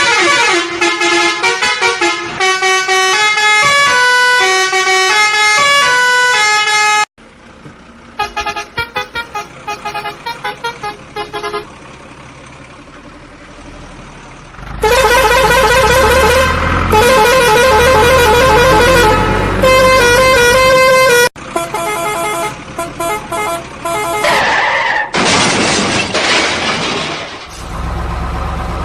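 Musical vehicle horn playing tunes in quick stepping notes, in two loud runs with a softer run of notes between them. A heavy engine runs low underneath in the later part.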